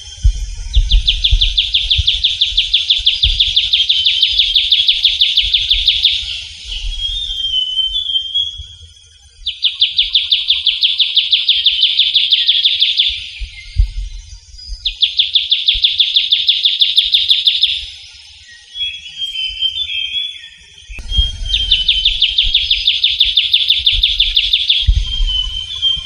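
Trilling shrike-babbler singing: four long, rapid trills of evenly repeated high notes, each a few seconds long, with short warbling phrases between them. A low rumble runs underneath.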